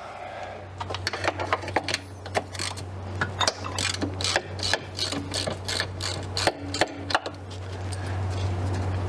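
Hand socket ratchet clicking in short irregular runs as engine mount bolts are worked loose, stopping about seven seconds in. A steady low hum runs underneath.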